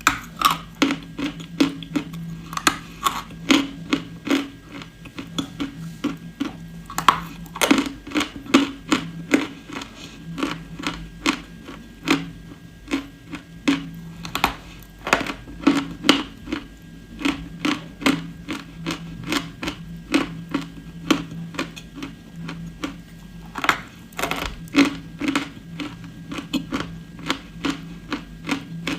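Close-miked chewing and crunching of hard, brittle edible clay: a quick run of sharp crunches and crackles, about two to three a second, with short lulls, over a steady low hum.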